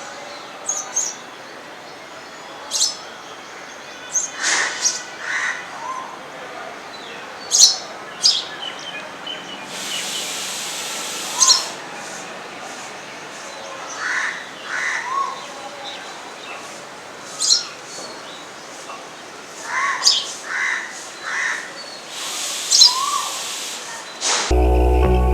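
Sparrows chirping in short, sharp calls at irregular intervals, mixed with lower, harsher calls from other birds. Music comes in near the end.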